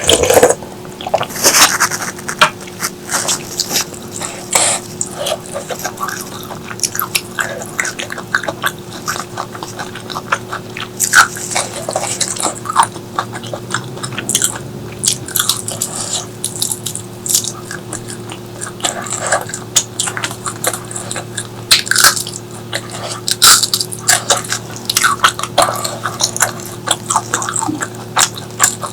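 Close-miked eating: chewing and biting, with frequent wet crunching and mouth clicks coming irregularly. A faint steady hum lies underneath.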